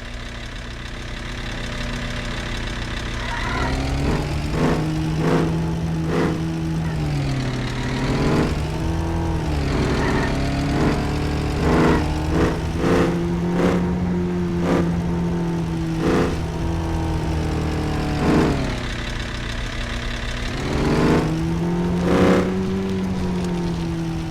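A vehicle engine running under way, its pitch rising and falling every few seconds as it speeds up and eases off, with scattered sharp knocks. One knock about 22 seconds in is the loudest.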